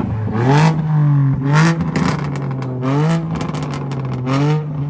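Car engine being blipped, the revs rising and falling back about four times over a steady idle, with a run of sharp pops in the middle.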